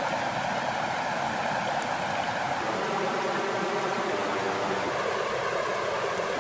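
Water flowing steadily, an even, continuous rush.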